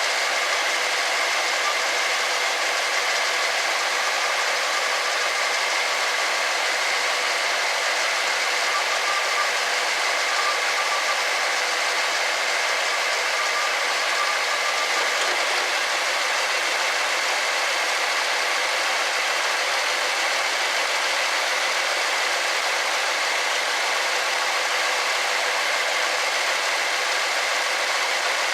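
1964 Ford Thunderbird V8 engine idling steadily while its carburettor idle mixture screws are turned in a little at a time to find peak manifold vacuum.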